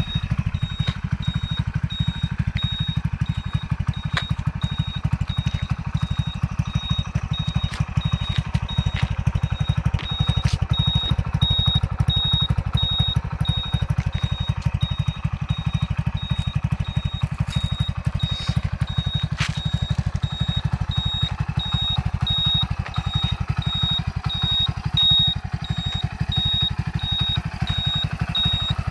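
Hero commuter motorcycle's single-cylinder engine idling steadily, with a regular high beeping running alongside for most of the time.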